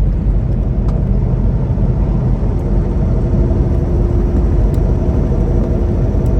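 Steady drone of a semi-truck's engine and road noise heard inside the cab while cruising, a constant low rumble with a faint steady hum above it.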